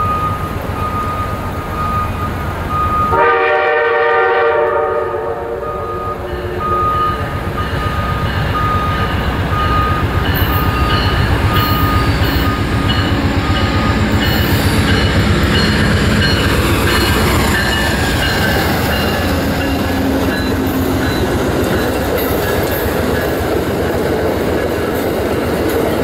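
Amtrak P42DC diesel locomotive sounding one chord-horn blast a few seconds in, while a bell dings steadily. The locomotive and its passenger cars then roll past with a heavy, steady rumble and clatter of wheels on rail.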